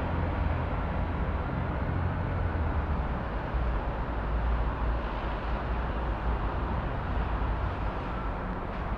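City traffic ambience: a steady rumble of vehicles, with no single event standing out.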